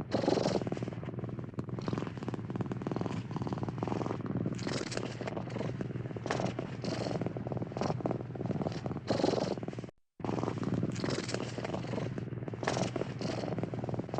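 A cat purring steadily, with a brief cut to silence about ten seconds in.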